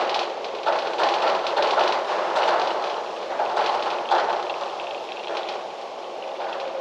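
Wind gusting through trees, leaves rustling and crackling, louder in the first few seconds and easing toward the end.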